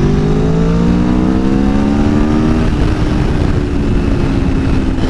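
Aprilia Tuono V4 Factory's V4 engine pulling hard under throttle. Its note rises steadily for about two and a half seconds, then levels off.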